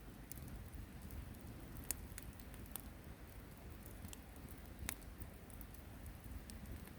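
Wood campfire crackling faintly: scattered sharp pops and ticks, the loudest about two seconds in and again near five seconds, over a low steady rumble.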